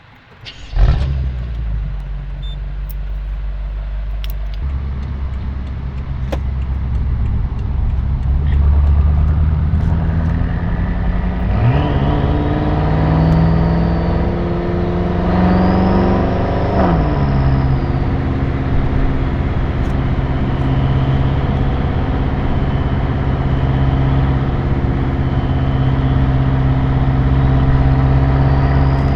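BMW M6 Gran Coupe's 4.4-litre twin-turbo V8 through an Akrapovič Evolution Line exhaust, recorded outside the car: it starts with a loud flare about a second in, then idles. Later the car pulls away, the engine note rising for several seconds until a gear change drops it, and then it runs on steadily.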